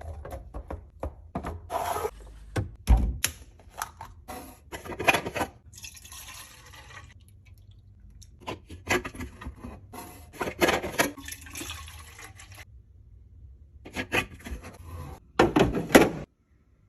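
Repeated clicks, knocks and clatter with stretches of hissing noise, as of food containers and packages being handled and set into a fridge. The sound cuts off suddenly near the end.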